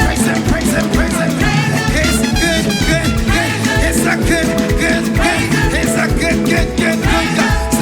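Live up-tempo praise and worship music from a band with a steady beat, with singing.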